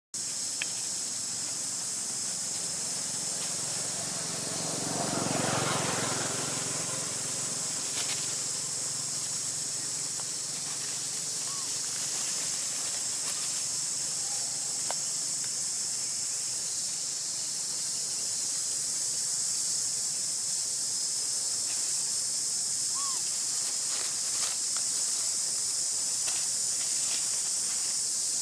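Steady high-pitched insect drone of the outdoor ambience, with a brief louder rush of noise about five seconds in and a few faint clicks.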